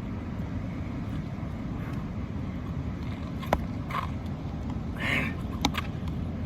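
Steady low outdoor rumble, like distant traffic, with two sharp clicks and a short hiss in the second half.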